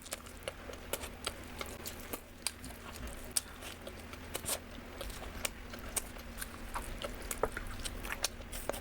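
Close-miked eating sounds: irregular crisp clicks and crackles of chewing and biting.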